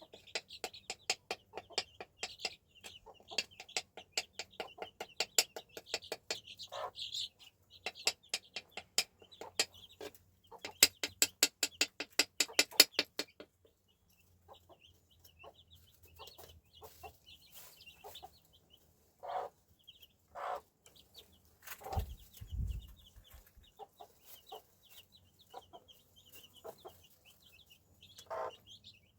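A fast, even run of sharp clicks for about the first half, then hens clucking now and then over a steady chatter of small birds chirping. A single low thump a little past the middle.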